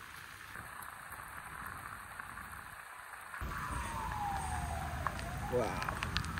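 Steady rain hiss. About three and a half seconds in, the background grows louder with a low rumble and a siren wails, its pitch sliding down and then climbing back up.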